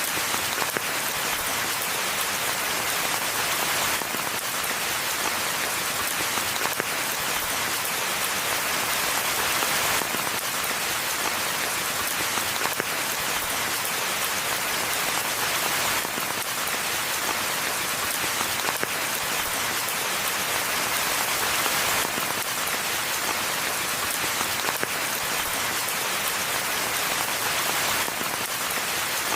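Steady rainfall in a forest: a dense, even hiss of many raindrops that holds constant throughout.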